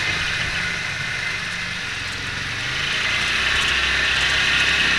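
Off-road pickup truck's engine running steadily at low revs, with a steady hiss over it that grows louder about three seconds in.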